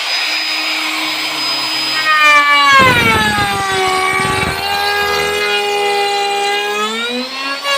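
Electric drill running: its motor note is steady at first, then drops sharply about two and a half seconds in as the bit bites, with a rough grinding rattle for a couple of seconds, holds at the lower pitch and rises briefly near the end.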